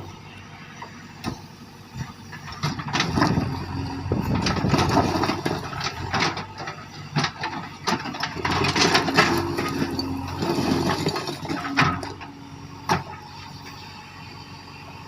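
JCB backhoe loader at work: its diesel engine running while the machine clanks and grinds through stones. The work is busiest through the middle and eases off to a steadier engine sound after about thirteen seconds.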